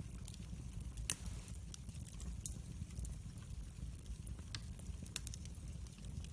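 Wood fire crackling, with scattered sharp pops over a low steady rumble; the loudest snap comes about a second in.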